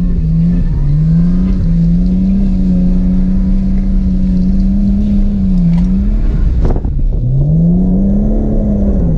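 Drift car's engine revving hard, its pitch rising, holding and dropping again and again as the throttle is worked. A single sharp crack comes about two-thirds of the way through, followed by a dip in revs and a fresh climb.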